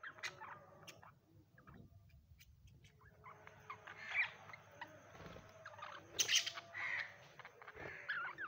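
Budgerigars chirping and chattering in quick, warbling calls, with a louder harsh squawk about six seconds in.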